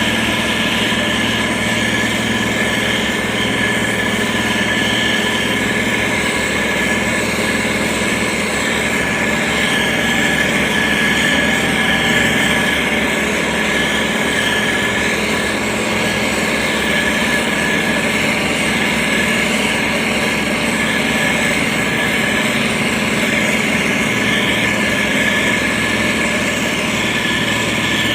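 Diesel engine of a SANY STG190C-8S motor grader running steadily, with a constant engine hum and a steady higher whine above it.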